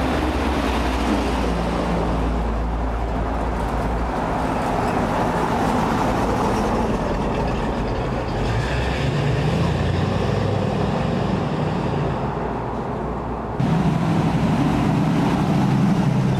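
Classic sports car engines running at low speed as the cars pass on cobblestones, starting with the four-cylinder engine of an MGB roadster. About three-quarters through, the sound jumps louder as a Jaguar E-Type's straight-six and another open roadster roll by.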